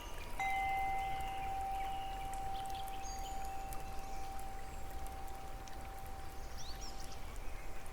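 A single chime note sounds about half a second in and rings steadily for around seven seconds over a constant background of falling water, with a few faint high bird chirps.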